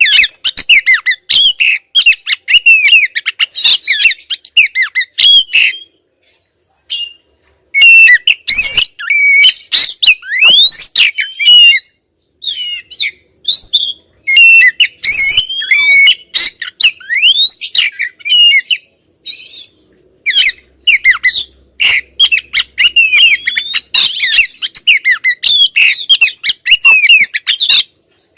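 Female Oriental magpie-robin (kacer) calling insistently: fast, dense runs of varied whistled and squawky gliding notes, with brief pauses about six seconds in and again near twelve seconds.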